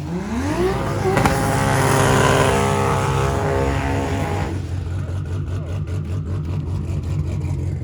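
A race car's engine idles with a steady low drone and revs up in pitch near the start, running harder for a few seconds before settling back to a lumpy idle.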